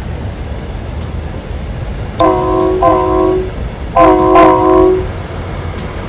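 Horn of a miniature-railway train modelled on a Sydney train, sounding four short blasts in two pairs, the first pair about two seconds in and the second a second later, over the steady low rumble of the train running.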